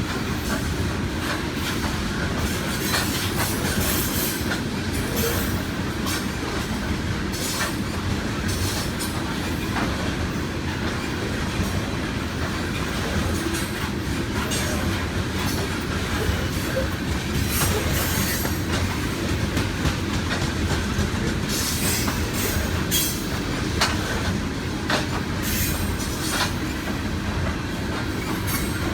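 A freight train's railcars rolling past: a steady low rumble of steel wheels on rail, with irregular clicks and knocks from wheels crossing rail joints and some wheel squeal.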